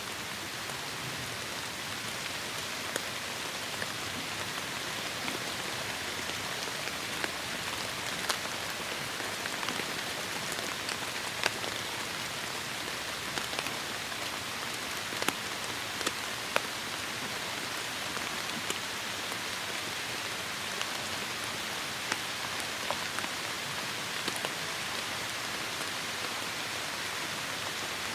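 Heavy rain falling in a steady hiss, with single drops hitting a surface sharply every second or so.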